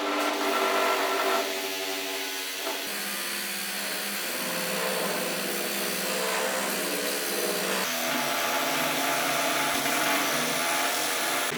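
Small electric power tool's motor running steadily, its pitch jumping abruptly to a new steady level several times.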